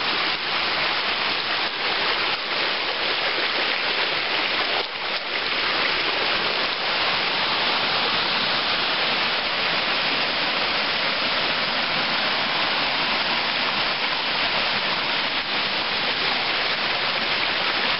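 Rushing water of a small rocky mountain creek, a steady even rush.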